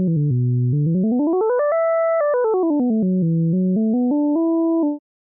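Synthesized 'perfect fifth' tone, two pitches a fifth apart sounding together, stepping through quick discrete notes along a wave-shaped path: down low, up high, down and up again. It cuts off abruptly about five seconds in.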